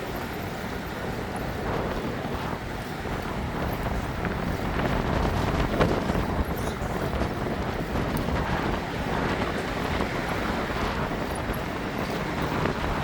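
Steady wind rumbling on the microphone of a camera moving with a bicycle, with outdoor city and waterfront noise beneath it.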